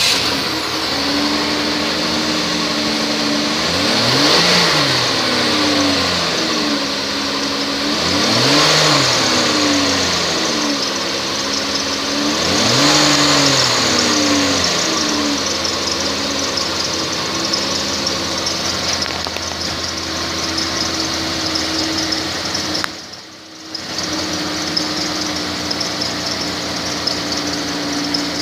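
2011 Dodge Avenger's engine running at idle, revved up and let back down three times about four seconds apart, then settling into a steady idle. The sound drops away briefly for about a second near the end.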